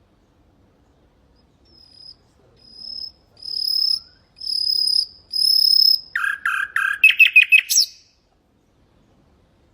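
Common nightingale singing one phrase. It opens with five long, high whistled notes that grow louder, then gives three lower, fuller notes and a fast trill, and ends on a short upward flick.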